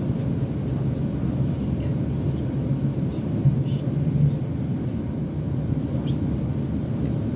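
Steady low rumble of a moving passenger train heard from on board, with a constant low hum, and two brief louder bumps about halfway through.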